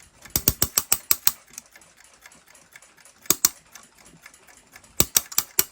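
Seikosha ship's clock movement being wound by hand a few turns, the mainspring ratchet clicking in three quick runs of sharp clicks. This is the winding that sets the balance self-starting.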